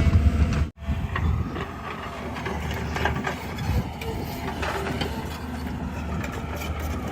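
Diesel engine of heavy earthmoving or farm machinery running steadily, with scattered light clicks and knocks; the sound cuts out for a moment under a second in, then resumes.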